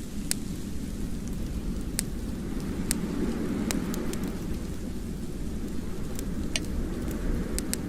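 Wood fire crackling in a fireplace: scattered sharp pops and snaps, a few every second, over a steady low rumble of the flames.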